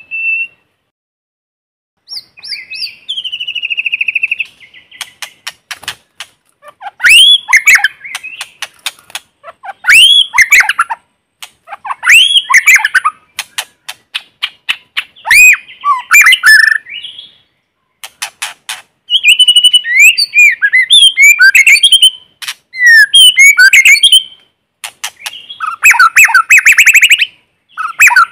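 White-rumped shama singing: a varied run of loud whistled phrases that swoop up and down, broken by rapid clicking notes and ending in a fast, buzzy rattling phrase. A single short whistle opens, then a pause of about a second and a half before the song resumes.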